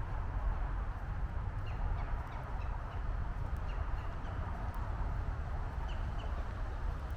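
Steady low rumble of distant highway and city traffic, with a bird's short high chirps sounding every second or so.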